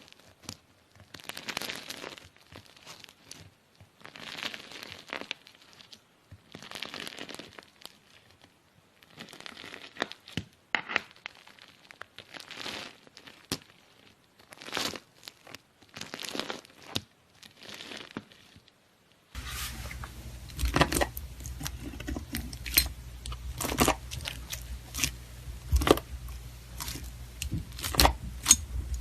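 A knife slicing through crunchy slime, each cut a short burst of crackling and crunching, about one a second. About two-thirds of the way through the crackles become sharper and louder over a steady low hum.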